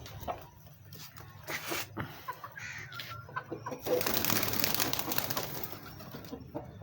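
Birds making low cooing sounds, with scattered clicks and a louder rush of rustling, flapping-like noise about four seconds in.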